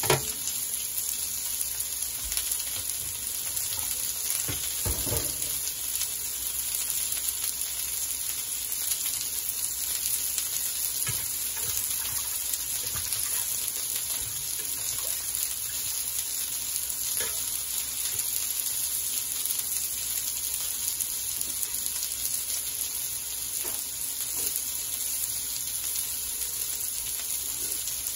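Chicken kebabs shallow-frying in a little oil: a steady sizzle, with a few faint knocks.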